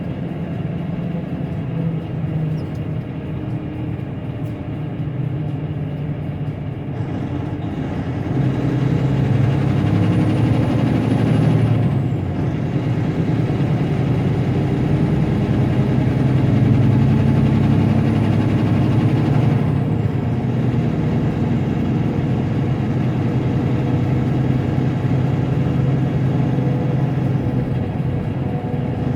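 Tractor-trailer's diesel engine running steadily. About eight seconds in it grows louder and its pitch shifts, as under more throttle, with a faint high whine over it until about twenty seconds in.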